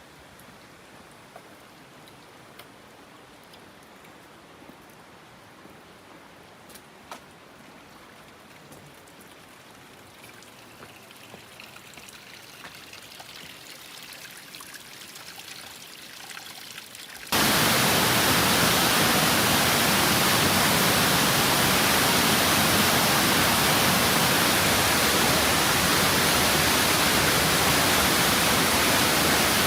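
Faint steady rushing of water with a few small clicks, slowly growing louder; about 17 seconds in it jumps suddenly to loud, even rushing of a waterfall heard close up.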